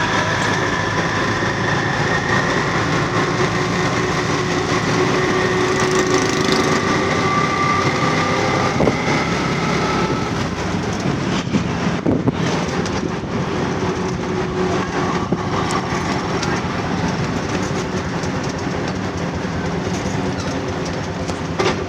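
Tuk-tuk ride heard from the passenger seat: the motor running steadily under constant road and wind noise.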